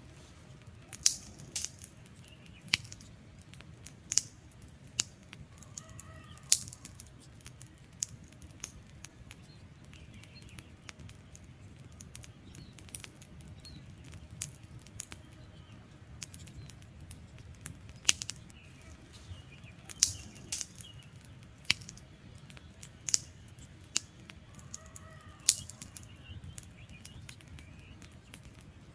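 Wood fire crackling: irregular sharp pops and snaps, some much louder than others, over a low steady rumble of burning. Faint bird chirps come in a few times in the background.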